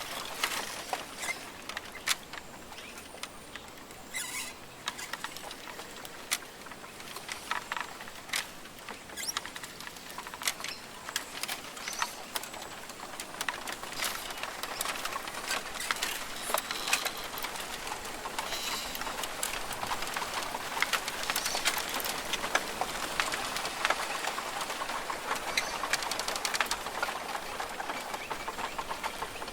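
Rainforest ambience: a steady hiss thick with many small irregular ticks and clicks, with a few faint high bird calls, growing a little denser and louder about halfway through.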